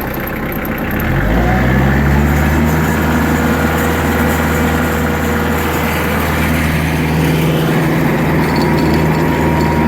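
Tractor engine throttled up about a second in, then running steadily at the higher speed.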